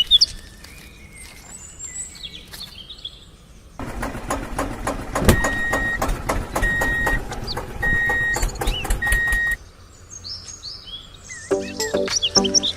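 Faint bird chirps, then about six seconds of a rapid mechanical clatter with four short, evenly spaced high beeps over it. Music starts near the end.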